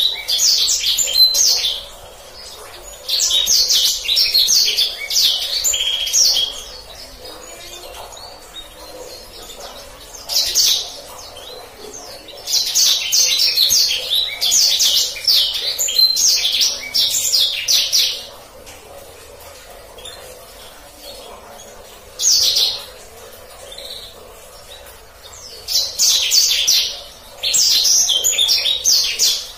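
Black-throated canary (blacksang) singing in phrases of rapid, rolling high-pitched trills. The phrases run from under a second to several seconds long, with short pauses between them.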